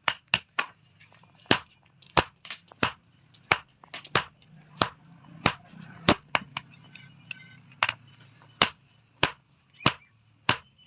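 Blacksmith's hammer striking steel on an anvil while forging: sharp ringing blows in a steady rhythm, roughly one every two-thirds of a second, some landing in quick pairs.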